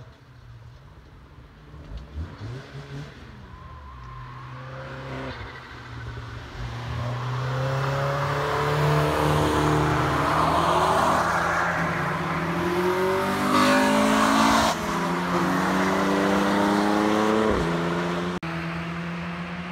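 A car on a wet race track approaches and passes at speed over a steady low drone. The engine note builds and its pitch drops sharply as it goes by, with a hiss of tyres on the wet surface.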